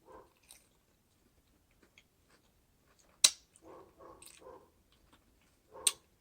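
A person chewing food in a pause between sentences, with two sharp smacks or clicks, one about three seconds in and one near the end.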